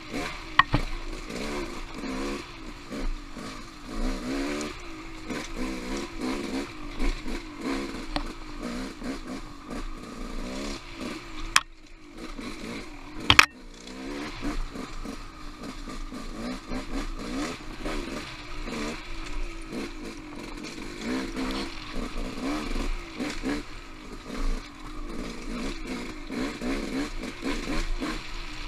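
Dirt bike engine revving up and down as the throttle is worked constantly, with sharp knocks and clatter; the engine falls quiet briefly near the middle, then a loud knock.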